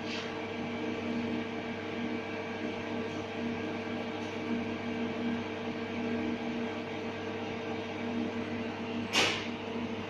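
Steady machine hum, with one short, sharp noise about nine seconds in.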